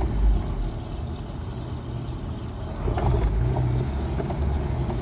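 1992 Ford Ranger's engine running and road noise heard inside the cab while driving, a steady low rumble that grows louder about three seconds in.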